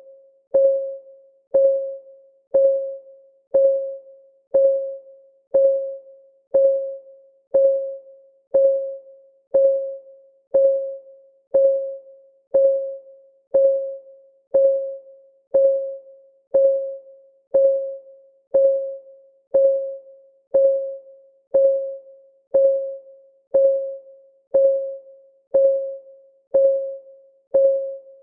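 Clock ticking for a countdown timer, steadily at one tick per second; each tick is a short click with a brief pitched ring.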